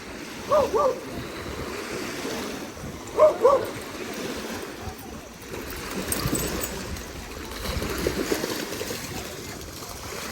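Water splashing and lapping at a beach, with a dog barking twice in quick pairs: two short barks about half a second in, and two more about three seconds in.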